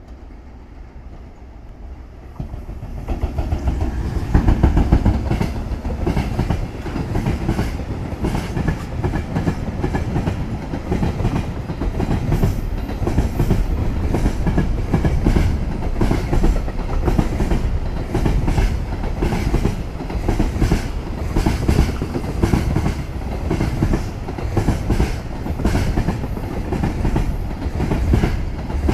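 JR Freight EF210 electric locomotive hauling a container freight train, swelling in loudness as it arrives about three seconds in. A long run of loaded container wagons follows, rumbling past with a steady clickety-clack of wheels on the rails.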